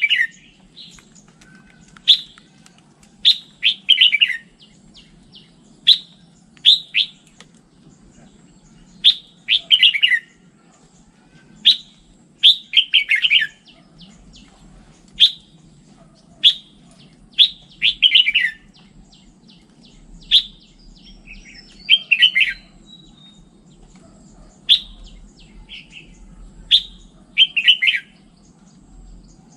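Red-whiskered bulbul singing: short whistled phrases, each a quick run of notes, repeated every second or two, over a faint steady low hum.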